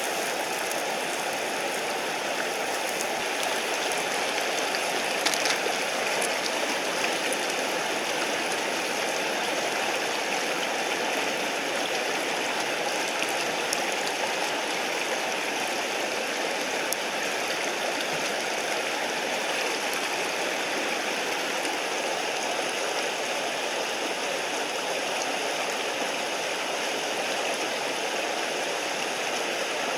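Mountain stream running steadily, an even rush of water, with a few faint clicks about five seconds in.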